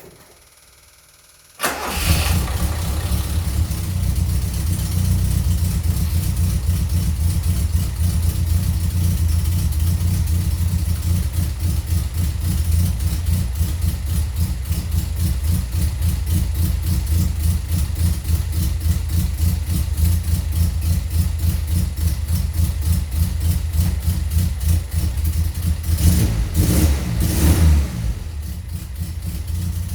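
Toyota Corolla KE55's 1.3-litre 4K-C four-cylinder engine on a cold start: it fires up suddenly about two seconds in and runs at a steady, even idle. There are a couple of louder surges near the end, then it settles slightly lower. The owner notes a loud tappet.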